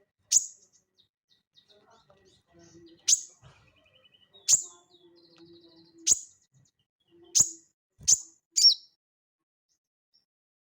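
Sogon songbird giving loud, sharp, very high single call notes, seven in all at intervals of about one to one and a half seconds and closer together near the end, with soft twittering between them.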